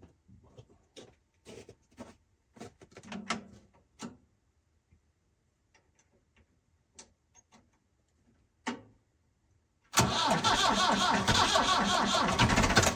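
Scattered light clicks and knocks of tools being handled, then, about ten seconds in, a tractor engine suddenly cranking over on its starter for about three seconds.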